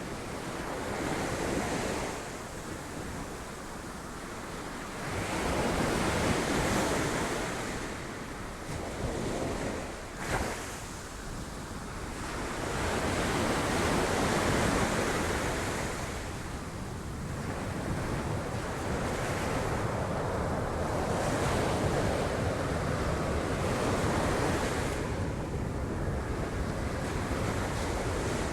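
Sea waves breaking on rocks: a continuous wash of surf that swells and falls back every few seconds, with a brief sharper crash about ten seconds in.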